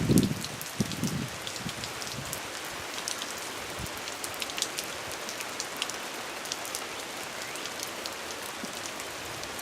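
Steady rain falling, with scattered single raindrops ticking sharply close by.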